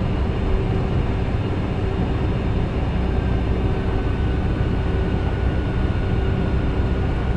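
Steady flight-deck noise of a KC-10 tanker taxiing, its three General Electric CF6 turbofans running at taxi power: a continuous low rumble and hiss with a steady hum. A faint high whine comes in about three seconds in.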